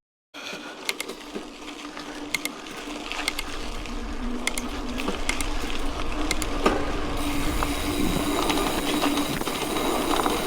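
Mountain bike rolling on a dirt road: tyre noise on the gravel with a steady hum and many irregular clicks and rattles from the bike. After a brief dropout at the very start, the noise grows fuller from about two-thirds of the way in.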